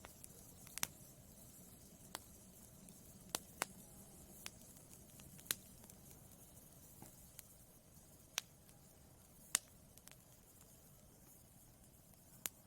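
Wood fire burning in a fireplace, crackling faintly: a soft low hiss with sharp, irregular pops every second or two.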